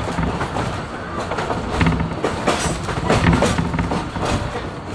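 Passenger railroad car rolling along the track: a steady rumble with several irregular knocks and clacks from the wheels and couplings.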